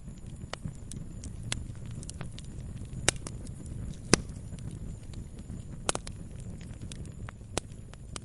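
Wood bonfire burning: a low steady rumble of the flames with scattered sharp crackles and pops, the loudest two about three and four seconds in.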